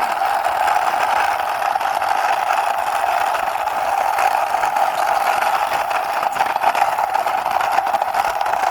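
Steady, unchanging engine-like whirring as a toy sports motorbike is driven along by hand.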